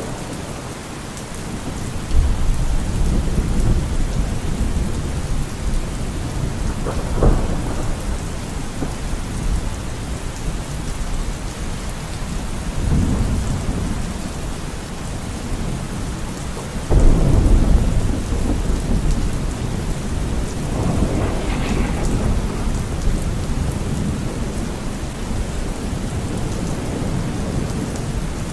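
Steady rain falling, with rolling thunder: a low rumble starts about two seconds in, a sharp crack follows a few seconds later, and the loudest rumble comes a little past halfway, with another peal soon after.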